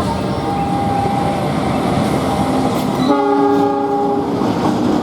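A passenger train, the Malioboro Express, runs past with a steady rumble of wheels on the rails. Its horn sounds one chord-like blast of about a second, around three seconds in.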